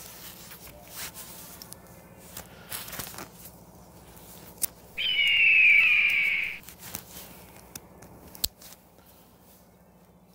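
One harsh bird call, drawn out for about a second and a half and falling in pitch, about halfway through. A few sharp clicks come before and after it.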